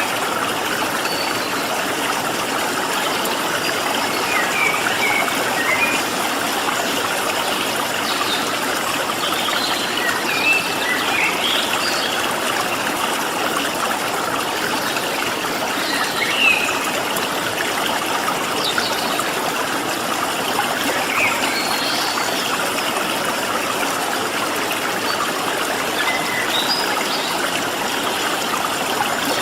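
Water in a stream flowing steadily, with short bird chirps and calls scattered over it.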